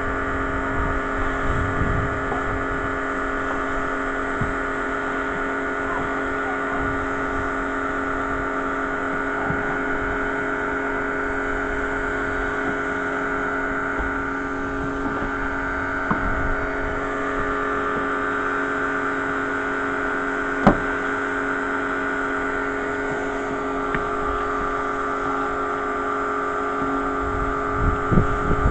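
Pressure washer running steadily, with a constant hum and hiss as it sprays a car. A single sharp click comes about two-thirds of the way through.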